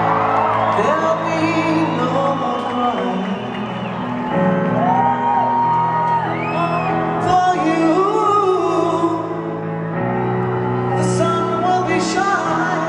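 Live concert recorded from the audience: a piano-led ballad plays in a large hall while people in the crowd whoop and shout over it.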